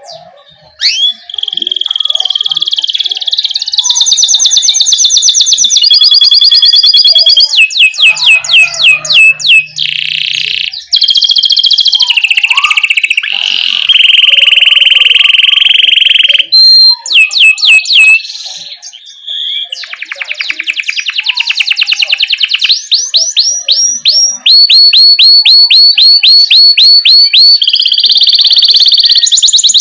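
Domestic canary singing a long, loud rolling song: fast trills of repeated rising notes alternating with steady whistled tones, the phrase changing every second or two.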